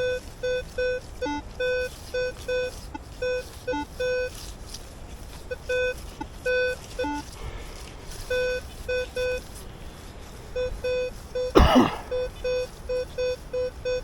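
Metal detector beeping as its coil is swept over the ground: many short beeps at one mid pitch in an uneven rhythm, with a few lower-pitched beeps mixed in. A brief loud knock and rustle comes about eleven and a half seconds in.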